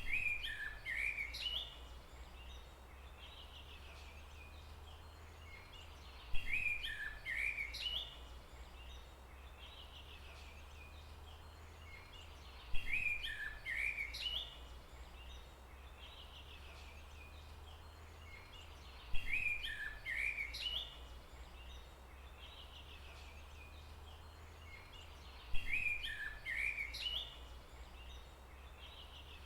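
A songbird singing the same short chirping phrase, about two seconds long, five times at even intervals of about six seconds, over a steady low rumble.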